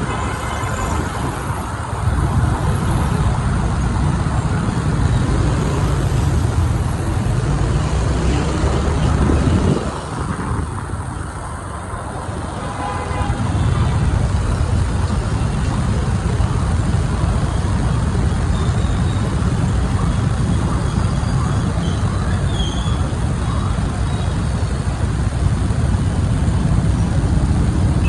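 Riding a motorbike through city street traffic: a steady low rumble of the bike and wind on the microphone over surrounding traffic noise. The rumble eases for a few seconds about ten seconds in, then picks up again.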